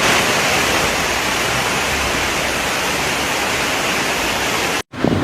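Loud, steady rushing of water, even and unbroken, that cuts off abruptly near the end.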